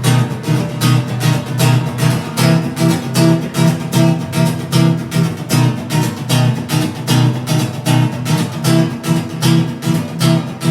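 Acoustic guitar strummed in a steady, quick rhythm, about four strums a second, playing the instrumental intro to a song.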